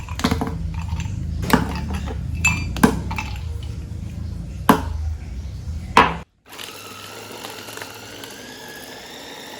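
Kitchen knocks and clinks over a low steady hum, then, after a brief cut, a small electric motor running with a whine that slowly rises in pitch, in keeping with a food chopper or blender grinding meatball mixture.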